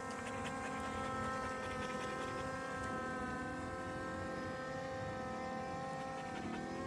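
Skydio 2 quadcopter drone hovering: a steady, many-toned propeller whine whose pitch shifts slightly a few times as the rotors adjust.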